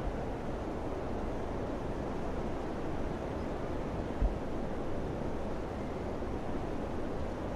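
Steady summer wind, a low, even rushing, with a brief low buffet of wind on the microphone about four seconds in.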